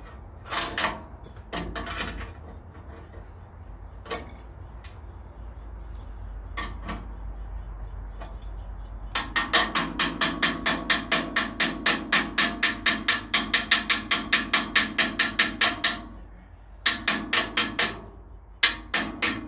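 Fast, even metallic clicking, about five a second, for some seven seconds, then two shorter runs, with a few single knocks earlier, as a part of the bandsaw is worked by hand.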